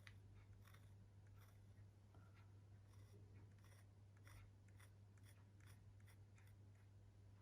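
Near silence: faint scratching and light ticks of a drawing tool moving on smooth watercolour paper, over a low steady hum.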